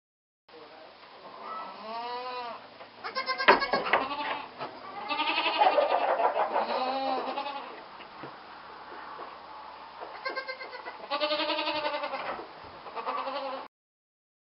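Goat kids bleating again and again, a series of wavering, quavering calls, sometimes overlapping, with a sharp knock about three and a half seconds in.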